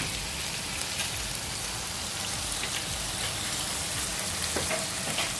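Chicken and potato pieces sautéing in oil in a pan: a steady sizzle with a few small crackles scattered through it.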